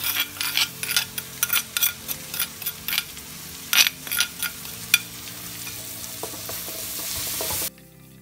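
A spatula and spoon repeatedly click and scrape against a stone mortar and wok as pounded chili paste is pushed into hot oil with frying onions and garlic. The sizzle swells over the last few seconds as the chili fries, then cuts off sharply near the end.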